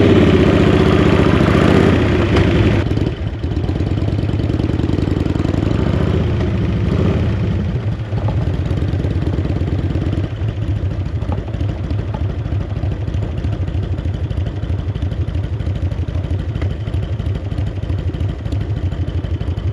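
Harley-Davidson V-twin engine of a chopper motorcycle, louder for about the first three seconds, then running steadily at low speed with an even pulsing beat that eases lower a few seconds later.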